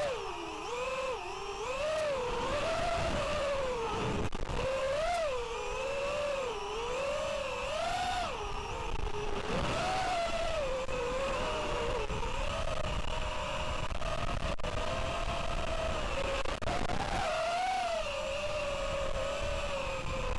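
FPV racing quadcopter's brushless motors and propellers whining, the pitch swooping up and down without pause as the throttle changes, over a low rumble of strong wind gusts buffeting the microphone.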